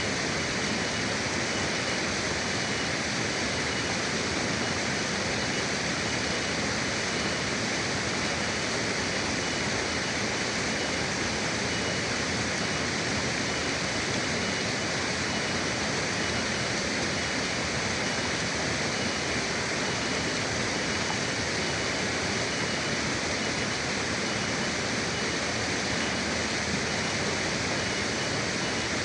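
River water rushing steadily, an even unbroken wash of flowing-water noise.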